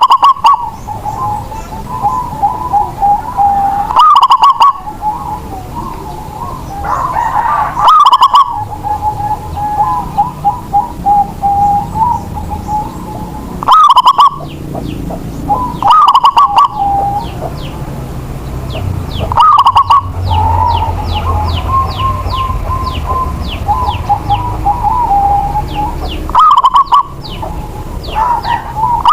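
Zebra dove (perkutut) singing its rolling coo, a loud phrase every few seconds with softer cooing between. A small bird's rapid high chirps run through the middle stretch.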